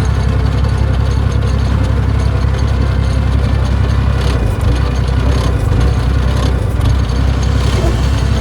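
Isuzu 6BD1 six-cylinder diesel of a Hitachi UH06-5 hydraulic excavator running steadily, the old engine brought back to life after decades unused.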